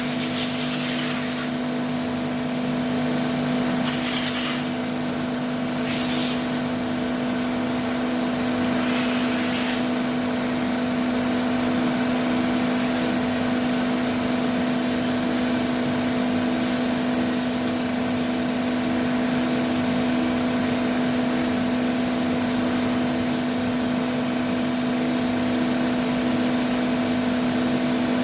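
Nakamura-Tome TMC-15 CNC lathe running with a steady, even machine hum over a constant hiss, with brief sharper hissing bursts now and then.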